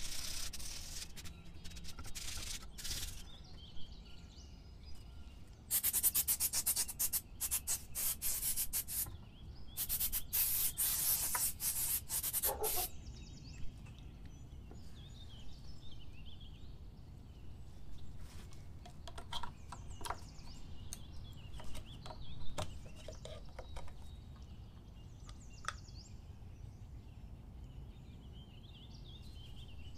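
Rusty steel scissor jack being scrubbed by hand with an abrasive, quick back-and-forth scratching strokes in bursts, heaviest for several seconds in the first half. After that the scrubbing stops, leaving only low background and a few light taps.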